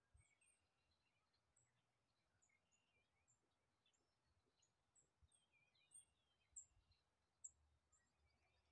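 Faint birdsong: many short, high chirps and warbling calls of small birds, the loudest chirps a little past the middle.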